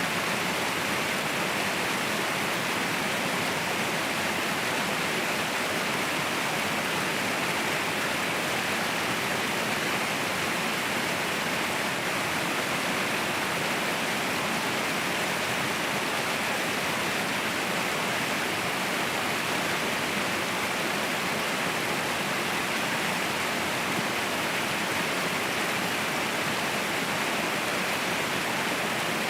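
Waterfall: steady, unbroken rush of falling water, brightest in the upper-middle range.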